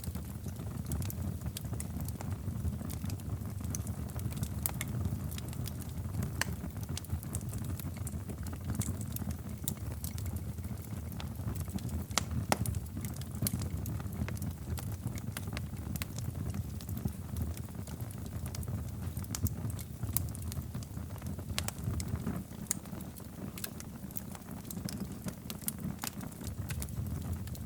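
Wood fire in a fireplace crackling, with irregular sharp pops and snaps over a steady low rumble of the flames; one louder pop about twelve seconds in.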